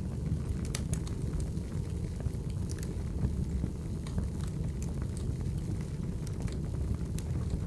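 Wood fire burning: a steady low rumble with irregular sharp crackles and pops of burning firewood.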